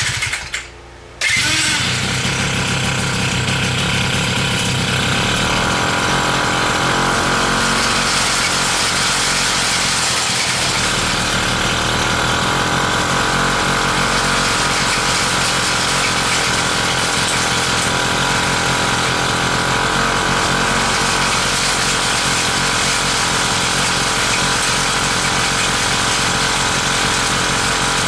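80 cc gas engine of a motorized mountain bike starting up about a second in after a brief burst, then running steadily at an even speed.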